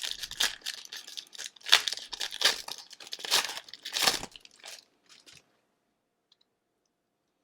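Plastic wrapper of an Upper Deck 2018-19 Series 2 hockey card pack being torn open and crinkled by hand, with sharp irregular rustles, stopping about five seconds in.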